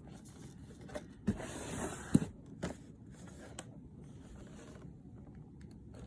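Handling of the fan's cardboard retail box: light scraping and rubbing, with a few sharp taps, the loudest about two seconds in.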